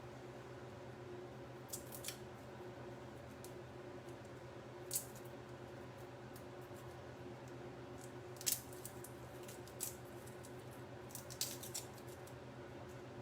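Scattered light clicks and taps from hands working at a kitchen counter, about seven in all and the sharpest about two-thirds of the way through, over a steady low hum.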